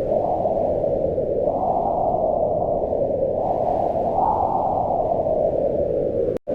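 Low, deep wind blowing steadily, swelling and easing in gusts every second or two. The sound cuts out for an instant near the end.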